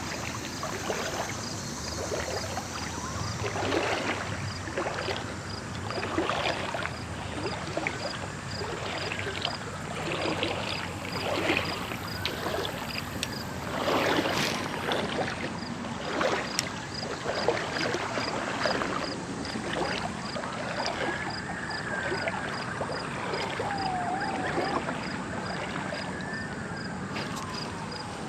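Steady traffic noise from a busy road and highway, with passing vehicles swelling and fading, over the flowing creek. A faint high ticking repeats about twice a second throughout.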